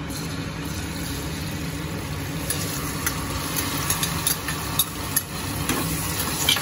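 Paneer cubes sizzling in hot ghee in an aluminium kadhai, the sizzle starting as they go in, over a low steady hum. From about halfway through, a metal spatula clinks and scrapes against the pan several times as the paneer is stirred.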